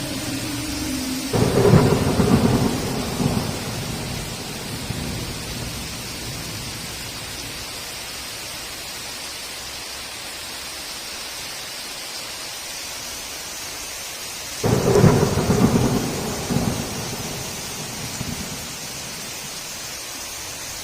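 Thunderstorm: steady heavy rain with two claps of thunder, about a second in and again about fourteen seconds in, each starting suddenly and rumbling away over a few seconds.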